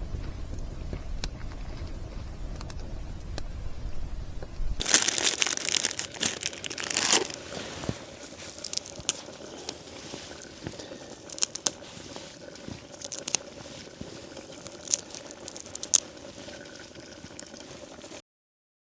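Plastic packaging crinkling and tearing open, loudest about five to eight seconds in, as a pack of fresh coriander is opened for the curry. It is followed by scattered small clicks and crackles, and there is a low rumble in the first few seconds.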